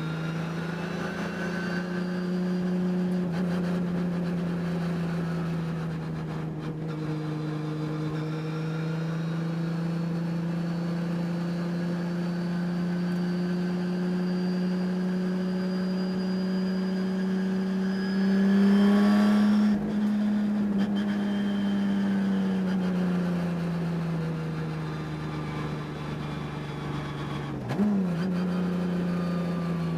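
Race car engine heard from on board, held at high revs in a steady drone whose pitch slowly rises and eases off. A louder rushing noise comes about two-thirds of the way through, and a sharp blip comes near the end. The engine had a high-RPM miss that the driver says can be heard during the race.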